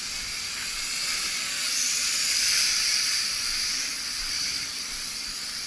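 U807 toy quadcopter's propellers buzzing in a high, hissy whine. It grows louder toward the middle and eases off again.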